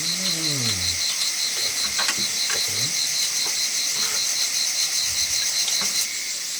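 A steady, evenly pulsing high-pitched chorus of insects chirping, which eases slightly about six seconds in. A short falling vocal sound is heard at the start, with a few faint clicks.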